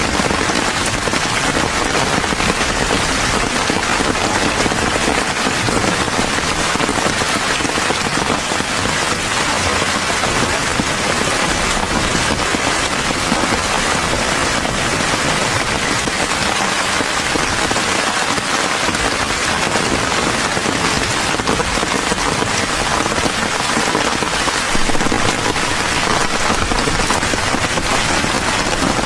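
Steady rain pattering, a dense even hiss of many small drops that holds unchanged throughout.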